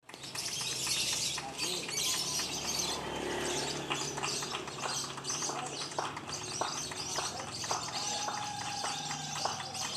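Lovebirds chirping rapidly and continuously, several at once, in a dense high-pitched chatter.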